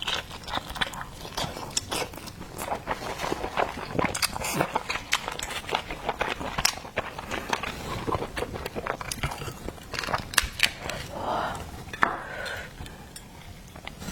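A person eating steamed oysters close to the microphone: wet chewing and mouth sounds with many irregular clicks and taps.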